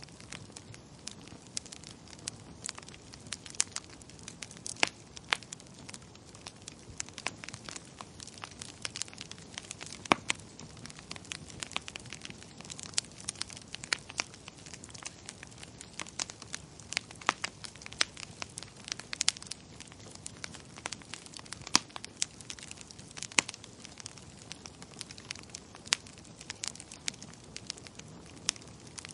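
Wood fire crackling in a fireplace: many irregular sharp pops and snaps, some louder than others, over a faint steady low rush of the flames.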